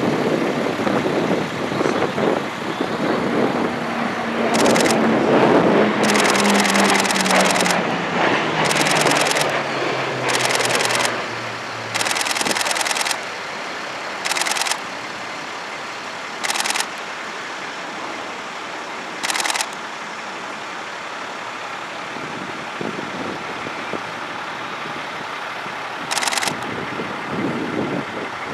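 E-2 Hawkeye's twin T56 turboprops passing in a display fly-by, the propeller drone dropping in pitch as the aircraft goes by and fading after about twelve seconds. Several short bursts of high rattling noise come and go throughout.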